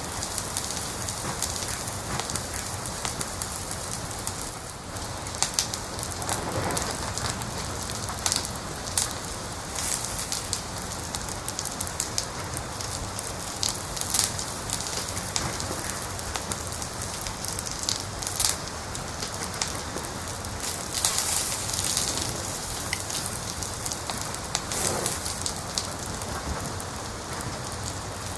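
Wood fire crackling: a steady hiss with irregular sharp pops and snaps scattered throughout.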